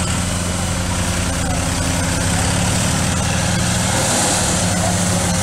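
Antique farm tractor engine running steadily at a constant pitch, getting slightly louder toward the end.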